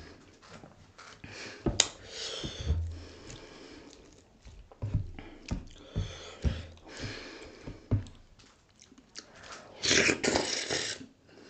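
Close-up mouth sounds of someone eating dhido with sisnu: wet chewing with irregular clicks and smacks, and a louder, noisier stretch about ten seconds in.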